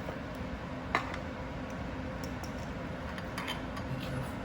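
A few light clicks and clinks of utensils and ice cubes in an egg-wash bowl while chicken is dipped and dredged, the sharpest about a second in, over a steady low background hum.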